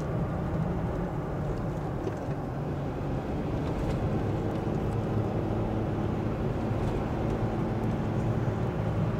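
Steady engine hum and road rumble of a vehicle driving along while towing a travel trailer.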